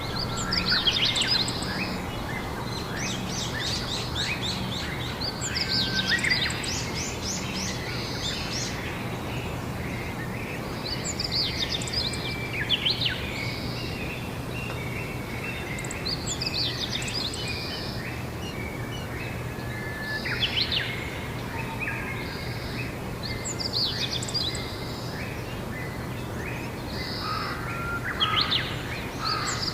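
Songbirds singing short chirping, trilling phrases that recur every few seconds, over a steady background hum.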